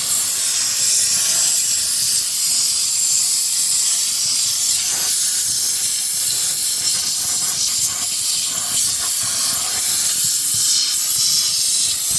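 Steady, loud hiss of a steamer jet melting the built-up frost and ice off a refrigerator's evaporator coil.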